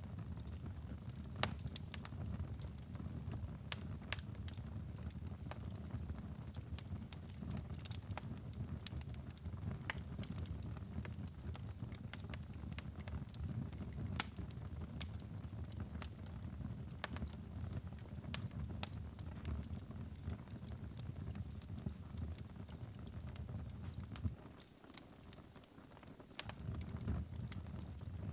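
Wood fire crackling in a fireplace: irregular sharp pops and snaps over a steady low rumble of the flames. The rumble briefly falls away near the end while the pops carry on.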